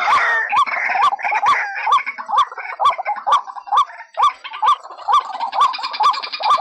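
White-breasted waterhen calling, played back as a trapping lure: a 'kru-ak' note repeated about twice a second over busier chattering calls. A fast buzzing rattle comes in near the end.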